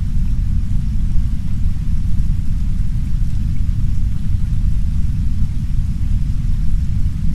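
Heavy brown noise: a steady, deep rumbling noise, with a much fainter hiss of soft rain against a window laid over it.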